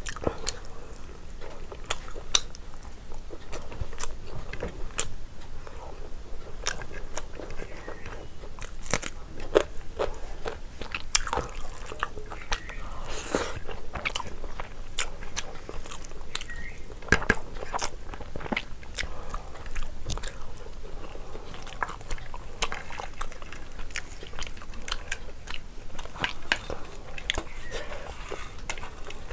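Close-miked eating sounds: a person chewing and biting biryani, with many small wet clicks and crunches throughout.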